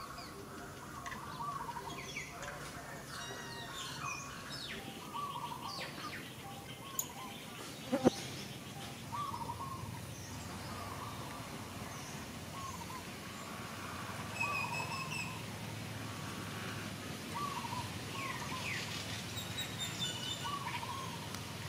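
Birds calling and chirping: a short call repeated every second or two, with higher chirps scattered among them. A sharp knock sounds once about eight seconds in.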